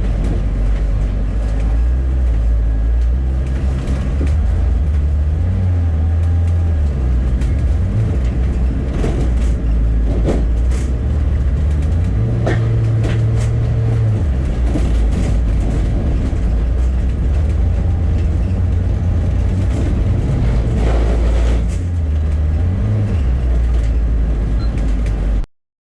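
Bus running along the road: a loud low engine drone that steps up and down in pitch as it changes speed, with occasional short knocks and rattles. The sound cuts off abruptly near the end.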